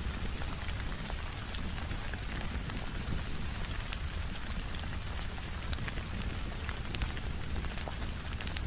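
Steady rain pattering on a window, layered with the crackle of a wood fire: scattered sharp pops and snaps over a constant low rumble.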